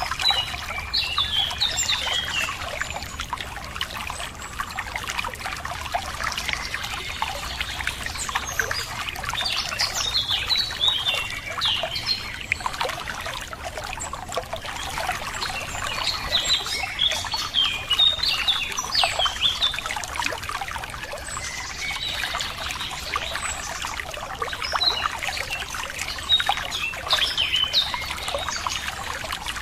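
Running water trickling and splashing over stones, with small birds chirping and singing in short phrases over it throughout.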